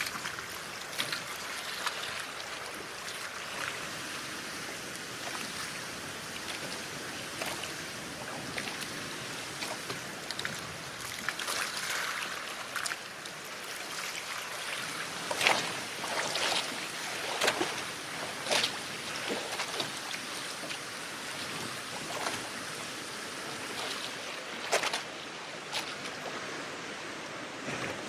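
Sea water rushing and splashing around a moving boat, a steady wash broken by sharper splashes every second or two, most often in the middle and near the end.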